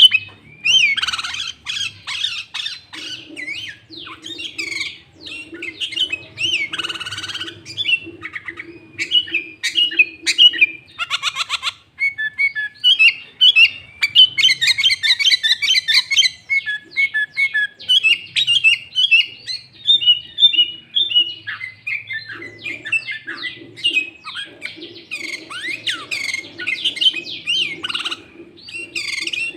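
Sooty-headed bulbul (kutilang) singing loudly in a fast, unbroken run of varied whistled and chattering notes, its song filled with mimicry of the greater green leafbird (cucak ijo).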